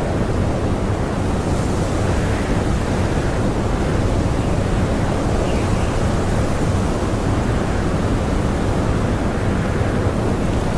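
Blizzard wind blowing hard and steadily, a dense, even rushing noise heaviest in the low end, with no gusts or lulls.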